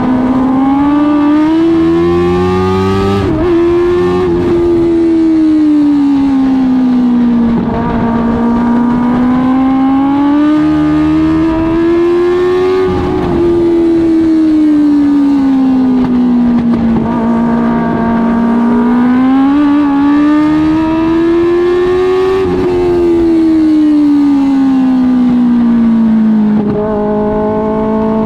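Dwarf car's Suzuki GSX-R1000 inline-four motorcycle engine racing around a short oval. Its pitch climbs and drops about every 9 to 10 seconds as it accelerates and lifts off, then holds a steady lower pitch near the end.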